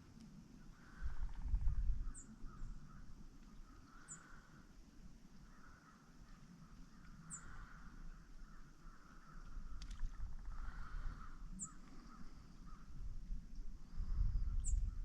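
Crows cawing in the distance, a hoarse call every few seconds, while another bird gives a few short, high, falling chirps. A low rumble comes about a second in and again near the end.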